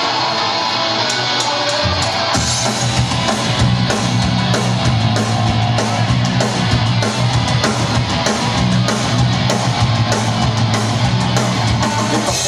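Live punk rock band playing loud and instrumental: guitar at first, then bass and drums come in about two seconds in and the full band drives on with an even beat.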